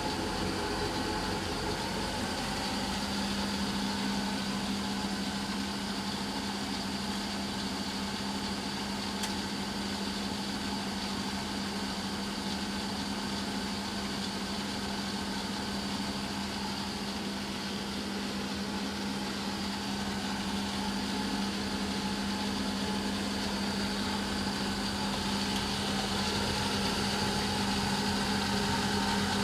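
Eudora Sparmeister 702 washing machine in its final spin: a steady motor-and-drum running noise with a constant hum that sets in a few seconds in, growing a little louder near the end.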